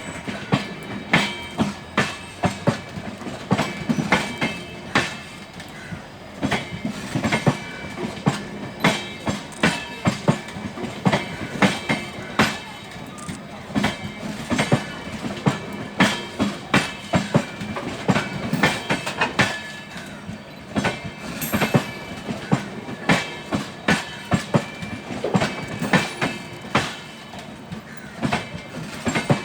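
Train wheels clattering over rail joints in a steady clickety-clack, about two clacks a second and often in pairs, over a steady rolling rumble: LHB passenger coaches moving along the track.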